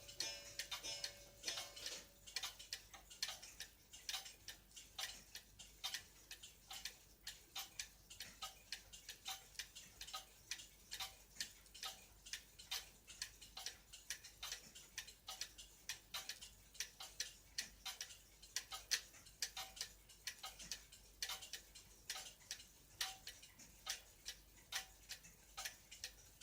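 Shield clock with alarm ticking steadily, an even run of sharp ticks at about two to three a second, running after its repair. A faint ringing tone dies away in the first couple of seconds.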